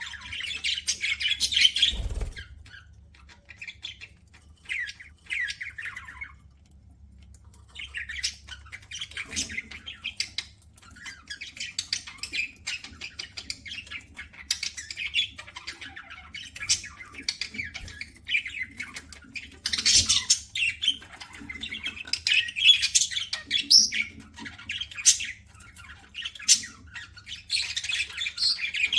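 Pet budgerigars chattering in quick, scattered chirps and squawks, with a short lull about six seconds in. A faint steady low hum runs underneath.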